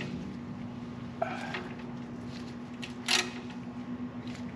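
Two brief scrapes and clinks of metal brake parts being handled while a stuck caliper slide pin is worked loose, the second louder, over a steady low hum.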